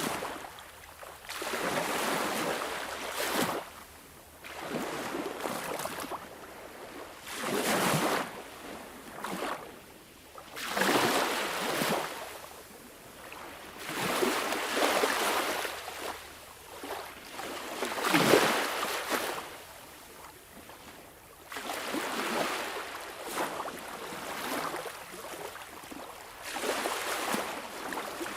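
Sea waves washing in, each one swelling up and then fading, about one every three to four seconds.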